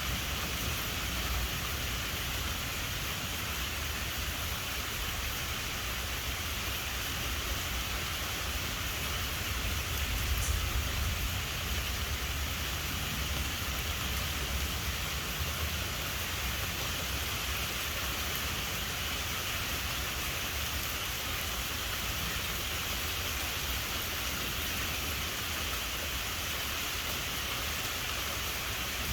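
Steady rain falling, with a low rumble of thunder underneath that swells briefly about ten seconds in.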